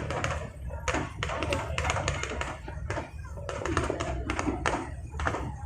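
Fireworks crackling and popping in quick, irregular clusters of sharp cracks, over a steady low rumble.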